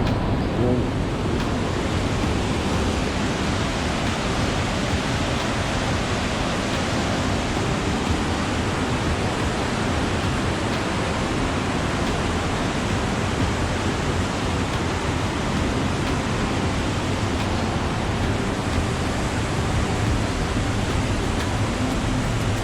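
Steady rushing noise of wind and sea on the open deck of a cruise ship at sea, even throughout and heaviest in the low end.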